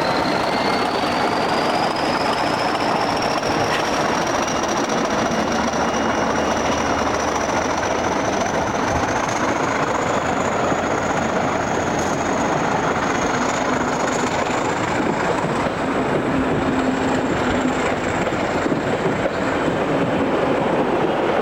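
A train running, a steady rumble with a thin high whine that climbs slowly in pitch.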